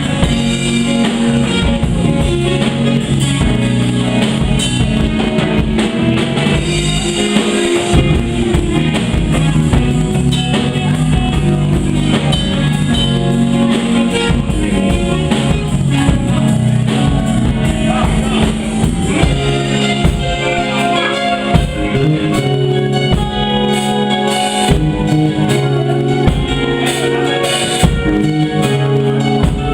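Live band playing an instrumental passage with electric guitar and drum kit, steady groove.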